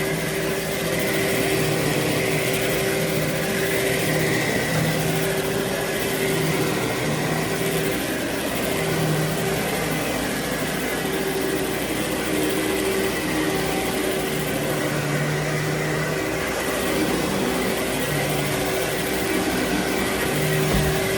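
Vacuum cleaner running steadily over carpet, its motor giving a constant hum with a lower tone that comes and goes as the load changes.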